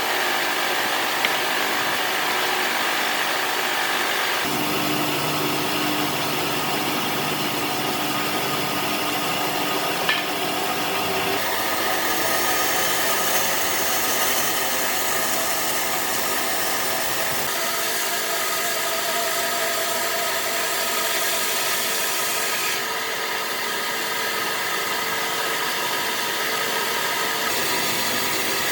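Power tools running steadily on wood. The sound changes abruptly several times as one tool or cut gives way to another.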